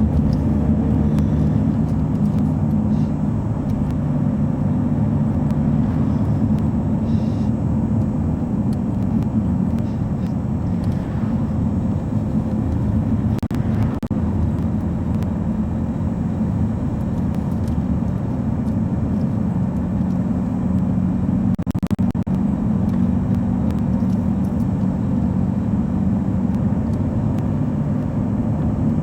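A lorry running on the road: a steady low engine drone with road noise, unbroken.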